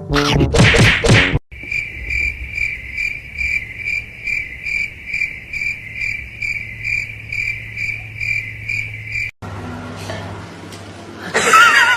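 Insect chirping, a steady even run of about three chirps a second lasting several seconds, after a short loud rush of noise at the start; the chirping cuts off suddenly and a different, noisier sound follows near the end.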